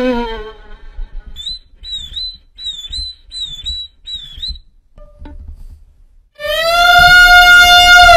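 A person imitating animal calls: a short call falling in pitch, then a run of five high, bird-like chirps, then a loud, long held call that slides down in pitch at the end, like a howl.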